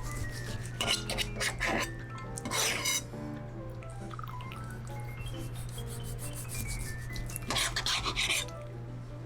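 Kitchen knife slicing through chilled, poached boneless chicken thigh: a few slicing strokes about a second in, again near three seconds, and near the end. Soft background music with stepping notes plays under them.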